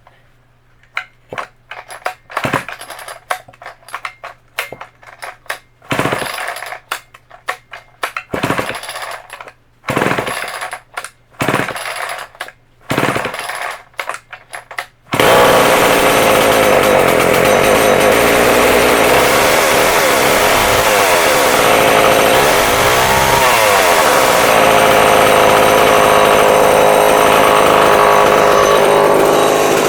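Homelite XL12 two-stroke chainsaw being pull-started cold with the choke out: a run of short starter-cord pulls for about fifteen seconds, then the engine catches and runs steadily, with a brief dip and rise in engine speed a few seconds later.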